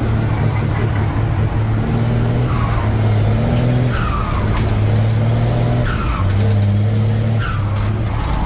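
Truck engine running as it drives, its pitch shifting up and down a few times, with four or five short falling squeaks over it.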